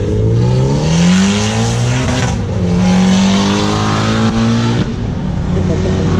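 A car accelerating hard, its engine revving up through one gear, a quick shift about two seconds in, then climbing again through the next gear before lifting off near five seconds.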